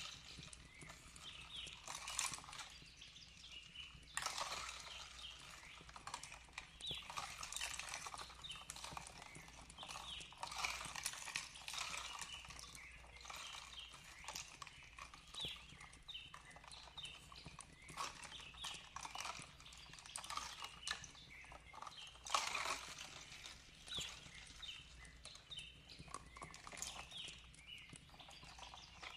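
Fireplace crackling with irregular sharp pops, over a soft steady hiss of flowing water and faint bird chirps.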